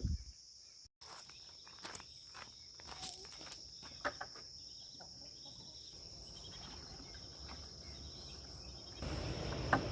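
Steady high-pitched drone of crickets or other insects, with scattered footsteps and small clicks. A louder low rumble comes in near the end.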